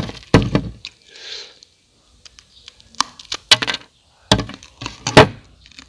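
Close crunching of crispy fried rice being bitten and chewed: a series of sharp, irregular crunches, loudest about half a second in, around three and a half seconds in, and again around five seconds in.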